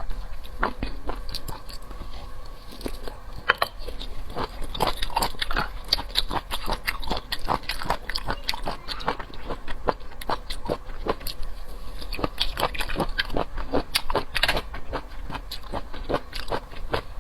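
Close-miked eating sounds: a person biting and chewing sea snail meat, a fast, irregular run of wet, crackly mouth clicks and smacks.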